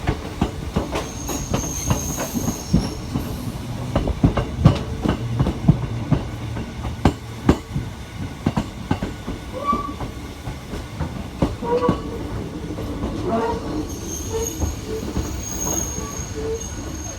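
Hakone Tozan Railway train running: a steady rumble with many sharp clicks and knocks from the wheels on the track, and a thin high wheel squeal about a second in and again near the end.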